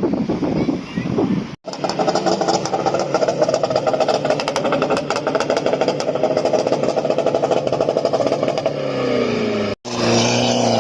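A car engine revving hard and held at high revs for several seconds, the revs then falling away near the end. The sound breaks off briefly about one and a half seconds in and again near the end.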